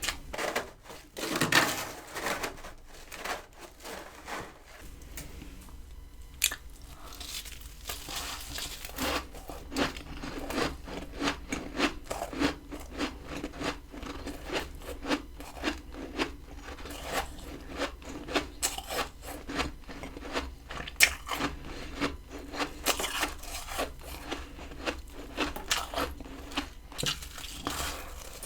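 Freezer frost ice being bitten and chewed close to the microphone: a steady run of many short, crisp crunches, with a louder cluster of crunches about a second in.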